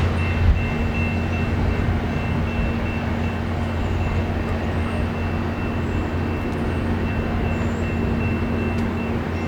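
VIA Rail passenger train passing at speed: a steady rumble of steel wheels on rail, with a faint high whine that comes and goes.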